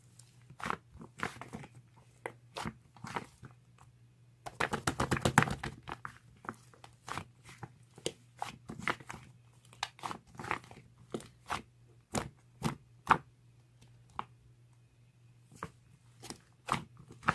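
A series of short, crisp crunches and clicks at irregular intervals, with a rapid run of them about five seconds in, over a faint steady low hum.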